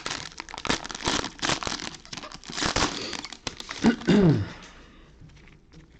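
Plastic wrapper of a football trading-card pack being torn open and crinkled for about four and a half seconds. About four seconds in there is a short falling vocal sound. After that it goes quiet, with only faint light ticks.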